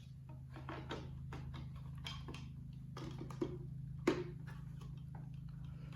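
Plastic prop poles being handled and pushed into the slots of a plastic base: a string of small clicks and knocks, with a sharper click about four seconds in, over a steady low hum.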